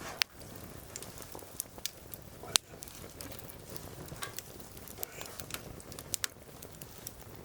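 Wood fire crackling steadily, with scattered small snaps and two louder pops, one just after the start and the loudest about two and a half seconds in.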